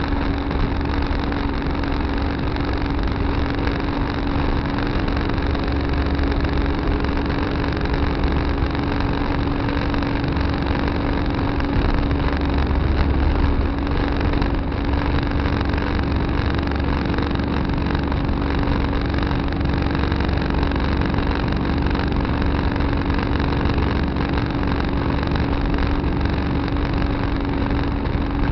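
Tractor engine running steadily at a constant pitch with a heavy low rumble, picked up by a dash camera in the cab.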